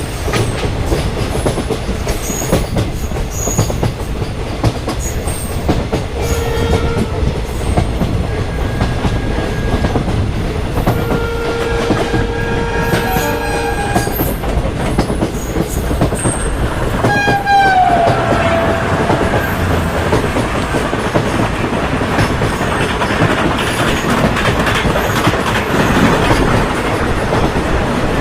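Train running with a steady rumble and clatter of wheels on rails. Its horn sounds twice, a short blast and then a longer one of about three seconds. Just past halfway a horn-like tone slides down in pitch.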